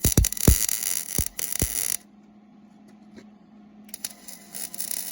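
MIG welding arc from a Millermatic 141 welder, crackling and sizzling. It stops about two seconds in and starts again about four seconds in.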